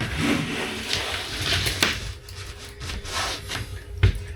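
Wooden panel being worked: irregular rubbing and scraping of wood, with a couple of sharp knocks.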